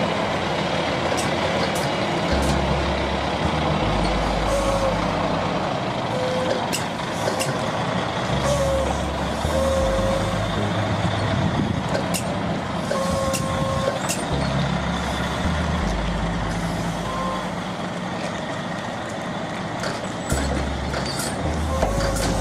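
Heavy truck's diesel engine running steadily, its low rumble rising and falling in steps. Short tones come irregularly through it, along with a few sharp clicks.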